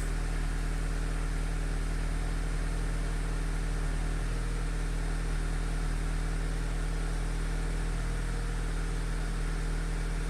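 2010 Audi A4 2.0T's turbocharged four-cylinder engine at fast idle on a cold start, with the secondary air injection pump still running. A steady, unchanging drone.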